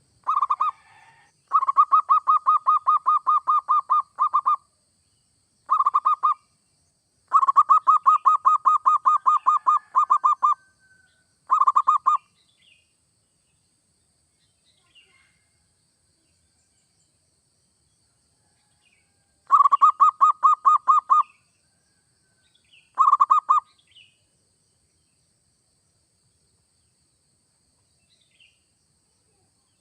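Zebra dove (perkutut) cooing: bouts of rapid, even coo notes at about eight a second, some under a second and the longest about three seconds, with a long pause in the middle.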